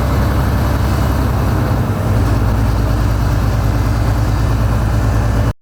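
Heavy diesel engine of construction machinery running steadily, its low note shifting about two seconds in, then cutting off abruptly near the end.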